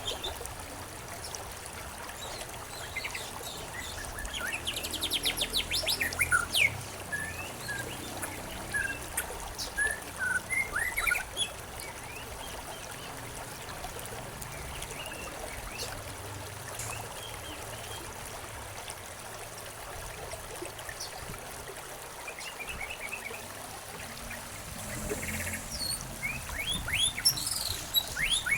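Several wild birds chirping and calling over a steady trickle of running water. Quick runs of high chirps come in clusters about five to eleven seconds in and again near the end.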